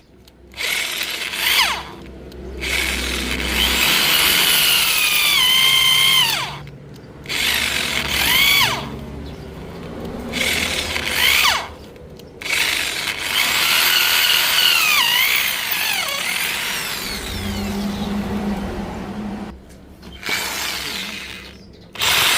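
Electric hand drill run in about six bursts with short pauses, its whine gliding and dropping in pitch as the bit bites: drilling into a rusted, seized exhaust bolt in the motorcycle's cylinder head.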